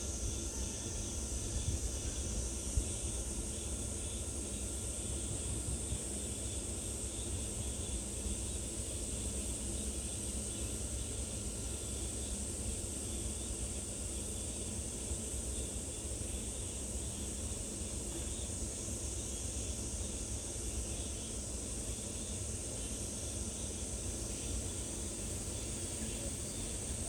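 Steady high-pitched insect chorus, with a low steady rumble beneath it.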